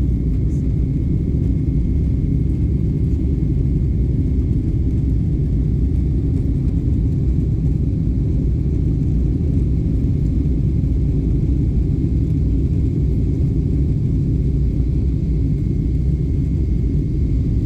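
Jet airliner after takeoff: a steady low rumble of engines and airflow, with a faint high steady tone above it.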